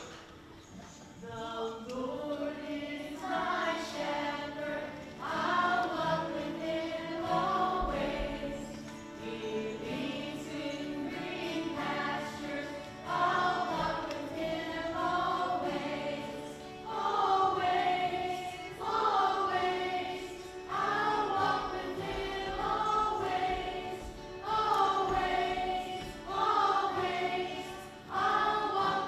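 A group of children singing a learned song together, in phrases of about two seconds.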